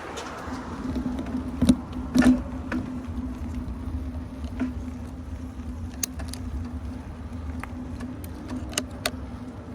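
Mountain bike rolling along, with a steady hum and rumble from the tyres and drivetrain and scattered clicks and rattles from the bike, two of them louder about two seconds in.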